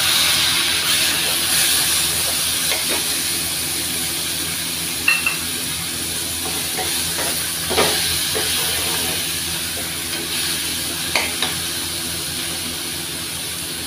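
Chopped tomatoes sizzling in hot oil with fried onions in a steel frying pan, loudest as they go in and slowly easing off, while a spoon stirs them and knocks against the pan a few times.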